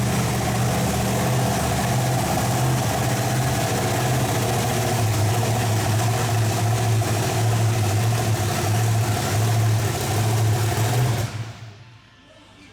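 A large vehicle engine running steadily at a low, even speed, loud and unchanging, cutting off suddenly near the end.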